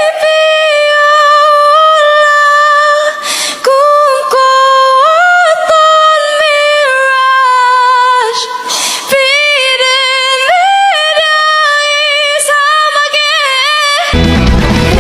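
A woman singing unaccompanied, holding long notes and sliding between pitches, with short breaths between phrases. Near the end a full backing track with a bass line comes in.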